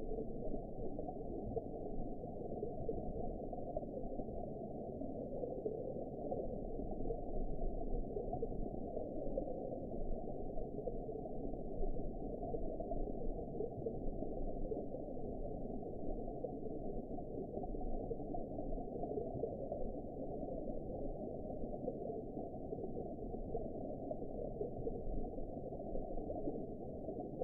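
Underwater ambience: a steady, muffled low rush of water, with nothing above a low pitch and gentle swells in loudness.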